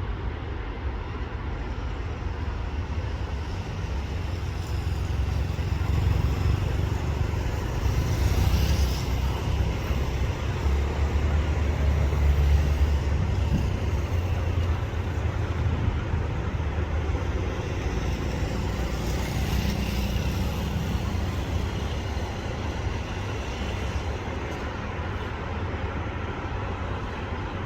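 Kiha 183 diesel railcar running, a steady low rumble that swells for several seconds about a third of the way in and then eases.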